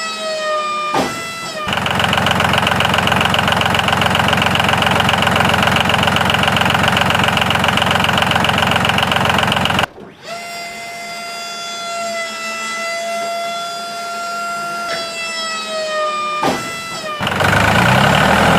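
Small electric motor of a homemade mini tractor whining at a steady pitch. The pitch sags briefly about a second in and again near the end. In between, a louder, rougher running stretch of about eight seconds cuts off suddenly.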